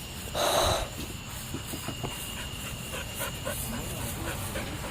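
A short breathy huff about half a second in, then faint scattered scuffs over a low rumble.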